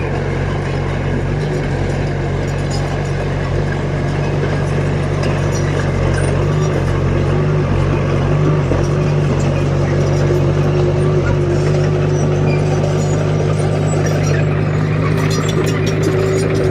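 Bulldozer's diesel engine running steadily under load while pushing gravel, with a rapid rattling clatter coming in near the end.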